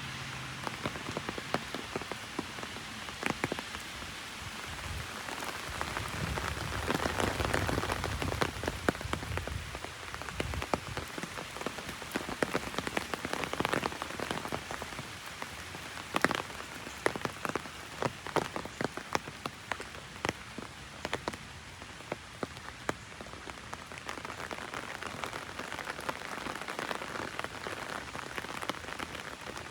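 Heavy rain falling on an umbrella overhead: a steady patter with many sharp individual drop hits. A low rumble swells and fades about five to ten seconds in.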